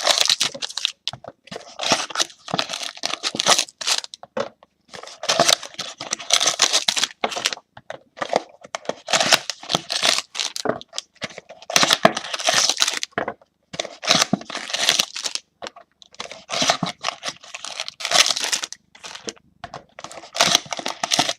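Trading-card packs and their wrapping being torn open and crinkled by hand, in repeated bursts of tearing and rustling.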